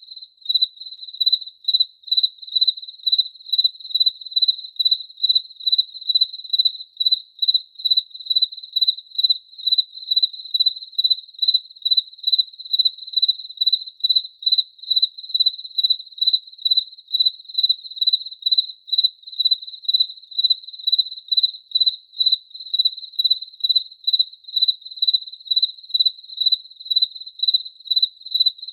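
A cricket chirping steadily: a single high, pure-toned chirp repeated evenly about twice a second.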